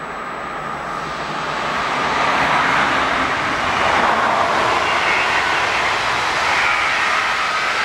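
Red double-deck regional train passing on the main line, a rushing roar of wheels on rails that swells over the first few seconds and stays loud as the coaches go by, with a faint steady whine in it.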